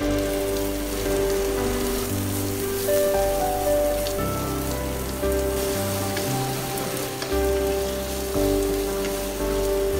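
Five-spice tofu strips and chopped garlic sizzling in hot oil in a wok, a steady crackling hiss. Background music with held notes and a bass line plays over it.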